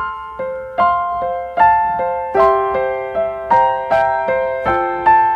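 Background piano music, gentle notes struck at an even pace of about two to three a second.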